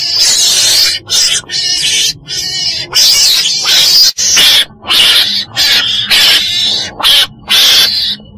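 Chồn đèn (ferret badger, a small mustelid) calling: a loud, fast series of about ten harsh, hissy screeching cries, each under a second long, with short breaks between them. It is a call of the kind used to lure the animal to traps.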